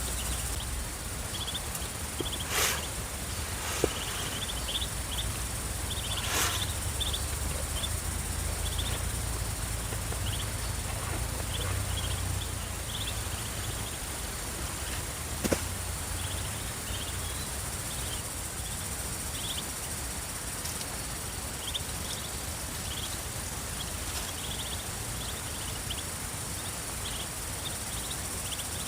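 Ducklings peeping while they feed: many short, high peeps scattered irregularly over a steady outdoor background hiss. There are a few sharp clicks or knocks, the loudest about fifteen seconds in.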